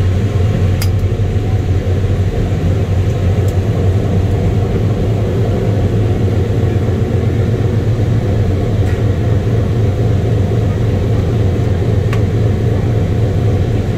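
Boeing B-29's number three engine, a Wright R-3350 eighteen-cylinder radial, running steadily at a low idle, just started, heard from inside the bomber.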